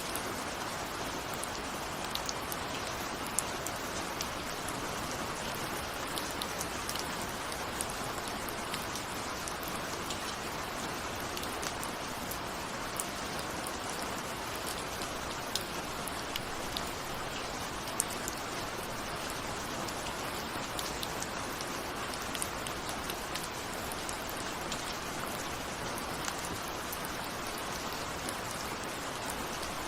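Steady rain falling, an even hiss with scattered sharp ticks of single drops striking a window.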